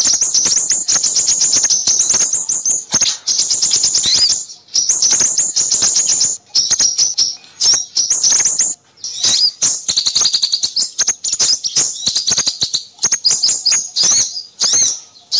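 A lure mix of small songbirds calling noisily at once, used to attract crimson sunbirds: rapid, high-pitched chirps and trills, loud and nearly continuous with a few brief gaps.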